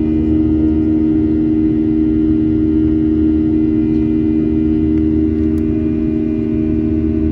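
Steady engine drone of a Boeing 737-800's CFM56 turbofans in the climb, heard inside the cabin: a steady hum of several tones over a low rumble.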